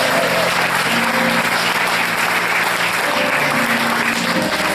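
Audience applauding, with a piano or keyboard holding soft sustained chords underneath.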